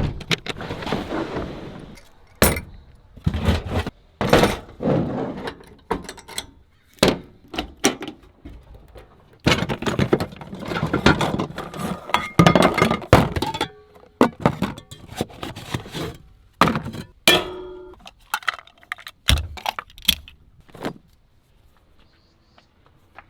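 Irregular sharp knocks, clacks and cracking sounds of hard objects being handled, with a busier stretch of clattering about ten seconds in and fewer knocks near the end.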